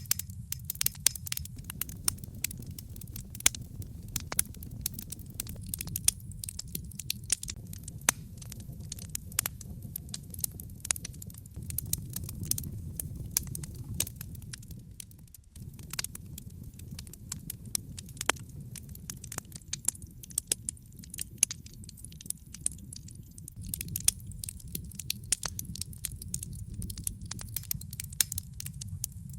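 Log fire in a fireplace crackling, with many irregular sharp pops and snaps over a low steady rumble of the burning logs. The rumble drops out briefly about halfway through.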